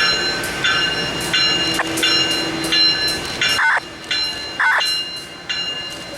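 A bell ringing over and over, about one and a half strokes a second, over the running noise of a train. Two brief squeals come a little past halfway.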